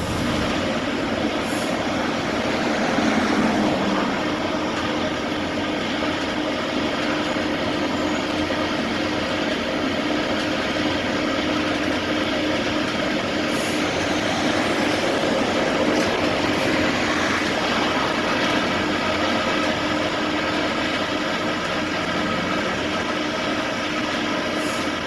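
A vehicle running steadily, an even rumbling noise with a constant hum that holds one pitch throughout.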